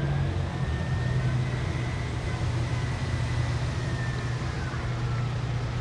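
Heavy fire truck engine running steadily as the apparatus rolls by, with a faint high whine that rises slowly and then slides down near the end.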